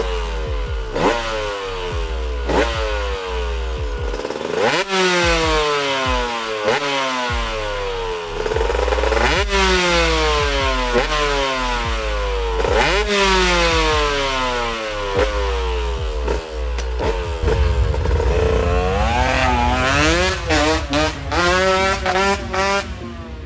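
KTM 125 two-stroke enduro engine being revved hard. Its pitch jumps up sharply and then falls away slowly several times, then it is blipped quickly and repeatedly in the last few seconds.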